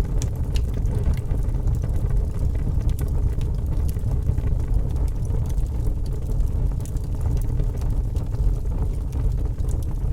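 Wood fire in a fireplace crackling, with scattered sharp pops and ticks over a steady low rumble.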